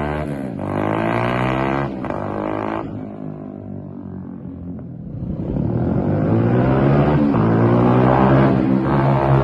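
10ten 125R pit bike's small single-cylinder engine, fitted with aftermarket end cans, revving up and down. It drops away to a quieter level about three seconds in, then comes back louder and steadier from about six seconds.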